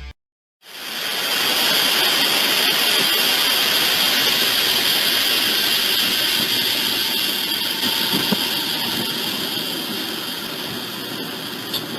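Steady, loud rushing noise of a train going by close to the microphone, building quickly about half a second in and easing off slowly toward the end.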